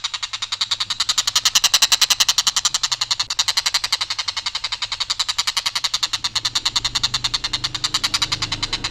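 Tengkek buto kingfisher calling: a long harsh rattle of rapid notes, about ten a second, kept up without a break on one even line.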